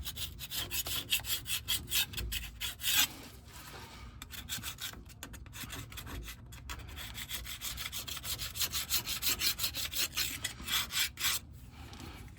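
Hand gasket scraper scraping old gasket material off the rear differential housing's cover flange in rapid back-and-forth strokes, with a short pause about three seconds in and the strokes easing off near the end.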